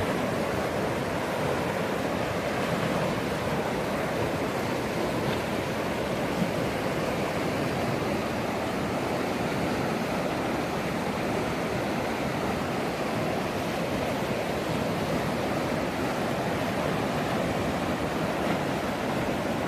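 Storm-swollen mountain river rushing steadily, a continuous even wash of fast water.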